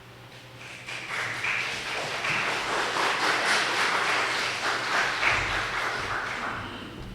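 Congregation applauding: a burst of many hands clapping that starts about a second in and dies away near the end.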